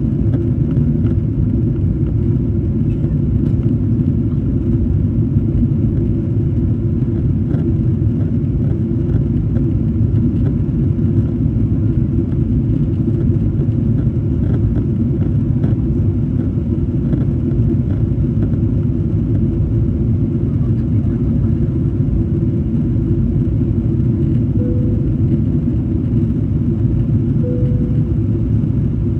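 Steady low rumble of an airliner's engines and airflow heard from inside the passenger cabin, unchanging throughout. Two short faint tones sound near the end.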